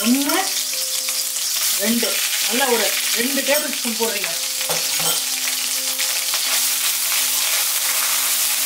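Ginger-garlic paste frying in hot oil in a wok with whole spices: a loud, steady sizzle. A spatula stirs it near the end.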